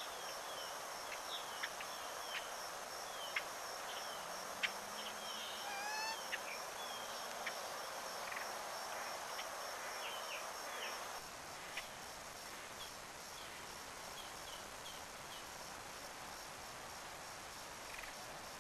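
Wild birds chirping: many short, quick chirps and whistled glides, with one fuller call about six seconds in, over a steady high insect trill. The chirping thins out after about eleven seconds.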